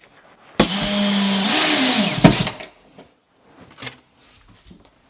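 Drill driving a screw into a wooden door for doorknob hardware, running for about two seconds. Its pitch shifts as the screw seats, and it stops with a sharp click.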